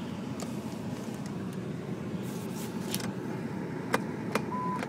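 Off-road vehicle's engine running, heard from inside the cabin as a steady low rumble. Near the end come two sharp clicks, then an electronic beep starts repeating about twice a second.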